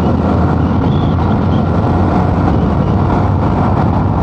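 Motorcycle running steadily at road speed, with engine noise mixed with a constant rush of wind on the rider's microphone.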